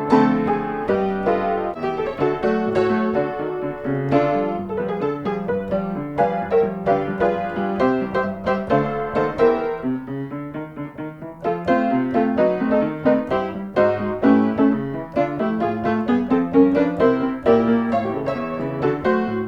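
Background piano music: a steady run of quick notes over held lower notes, quieter for a moment a little past the middle before picking up again.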